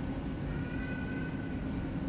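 Steady low rumble and hum of jet aircraft on an airport apron during a Boeing 777-300ER pushback, with a faint high whine from about half a second in that lasts about a second.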